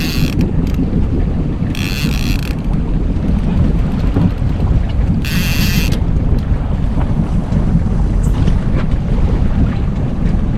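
Steady low rumble of a fishing boat under way with wind buffeting the microphone, broken three times by a short ratcheting buzz: once right at the start, once about two seconds in and once about five and a half seconds in.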